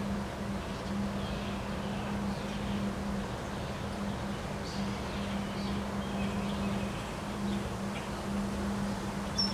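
Steady wind noise with faint bird chirps over it and a low, steady hum underneath.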